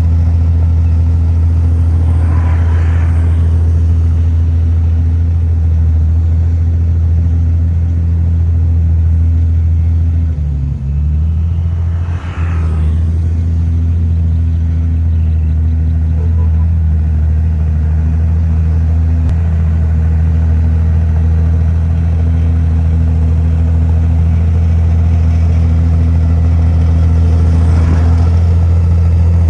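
Heavy diesel engine of earthmoving machinery running steadily and loudly. Its pitch and loudness dip briefly twice about a third of the way through, then recover.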